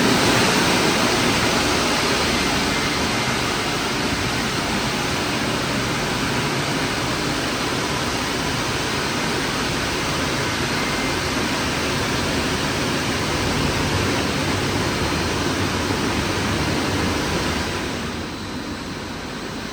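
Christ Vega C170 rollover car wash machine running a wash cycle: a loud, steady rushing noise that eases off about eighteen seconds in.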